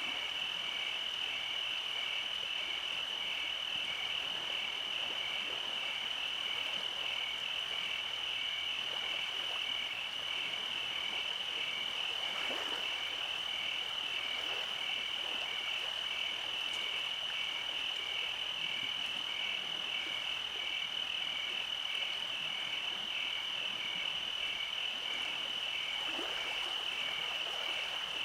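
Night chorus of calling creatures: a steady high-pitched trill with a second call pulsing just below it about two or three times a second, over a soft hiss.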